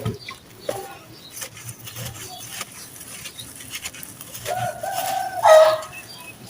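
Wet sand-cement crumbling, with scattered small crackles and clicks. About four and a half seconds in, a pitched call sounds for about a second and a half, the loudest sound here.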